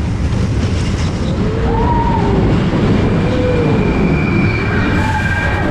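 Roller coaster train on Expedition Everest running on its track: a loud, steady rumble with rushing wind, heard from aboard the ride.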